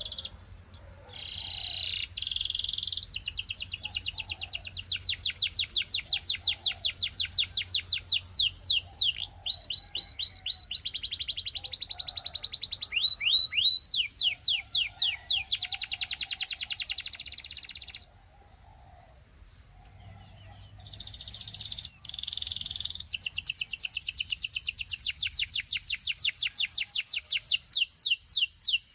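Russian singing canary in full song: long, rapid trills of high repeated notes, phrase after phrase. The song breaks off for a few seconds about two-thirds of the way through, then resumes.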